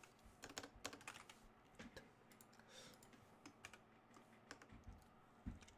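Faint, irregular keystrokes on a computer keyboard, coming in short runs.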